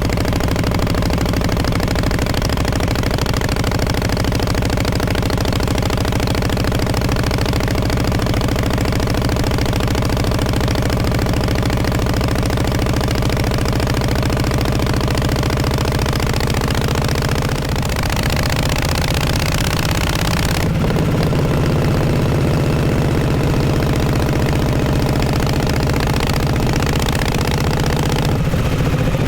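1948 Harley-Davidson Panhead V-twin running steadily through its exhaust, with a brief dip in level about two-thirds through and then running a little louder.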